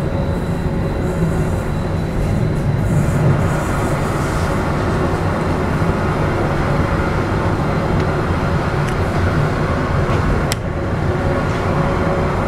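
Pangrango passenger train coach rolling along the track: a steady rumble of wheels on rail, with one sharp click near the end.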